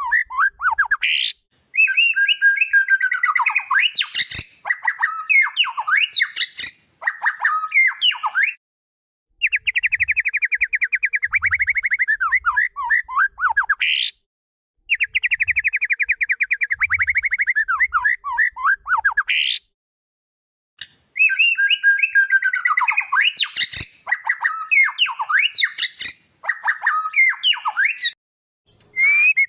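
White-rumped shama (murai batu) song in phrases several seconds long, each opening with a rapid buzzing trill and running into varied swooping whistles, separated by brief silences. The same phrase comes back more than once, as in a looped recording.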